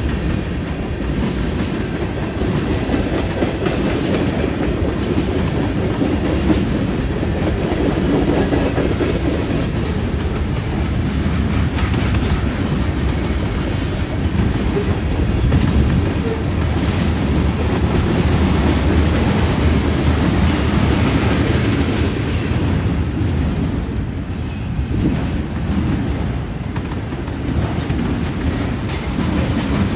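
Freight train cars rolling steadily past, with a continuous low rumble and the clickety-clack of wheels over rail joints.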